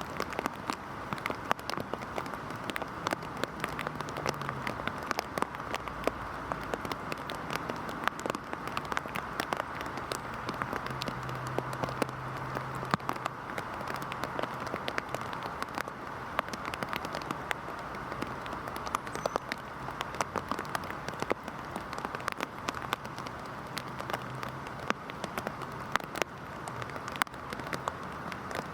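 Heavy rain falling: a steady hiss dense with the sharp taps of close drops striking a surface, and a faint low hum coming and going beneath it.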